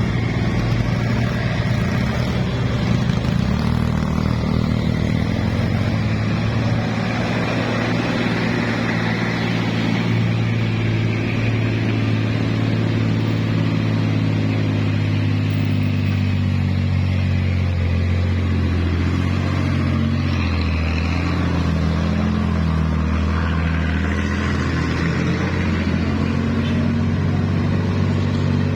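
Motor vehicle engine running steadily at a low, even pitch, wavering slightly in the middle before settling.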